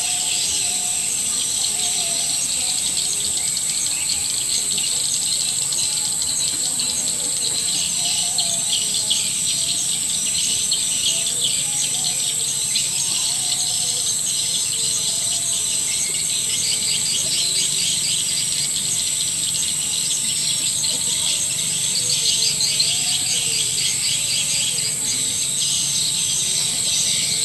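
Swiftlet lure call recording: a dense chorus of edible-nest swiftlets twittering in rapid high chirps over a steady high-pitched ringing tone, a mix of dusk-return calls and mating calls.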